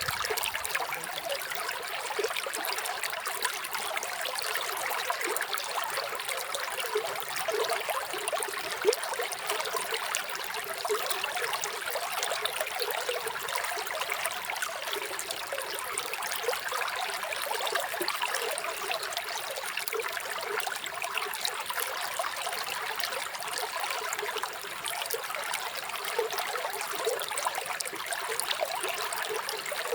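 Running water: a small stream trickling and splashing steadily.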